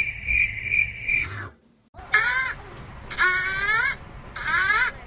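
A steady, high-pitched pulsing trill that cuts off about a second and a half in. After a short gap comes a voice crying out three times, each cry about half a second long and wavering in pitch.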